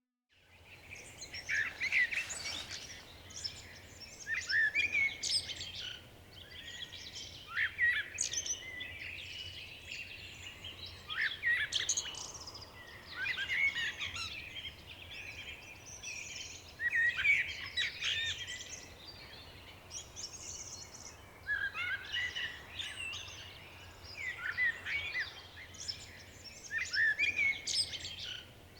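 Wild songbirds singing outdoors, short phrases repeating every two to three seconds, over a low steady rumble.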